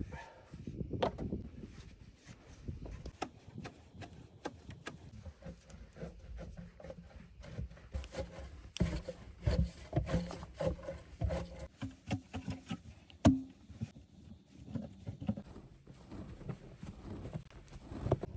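Irregular knocks, rubbing and scraping of hand work during a shelter build, busier in the second half, with one sharp knock about 13 seconds in.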